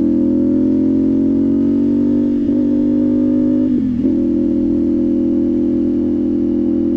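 CFMOTO 450SS motorcycle's parallel-twin engine running at cruising speed, its pitch climbing slowly. About four seconds in it dips sharply and briefly, then holds steady.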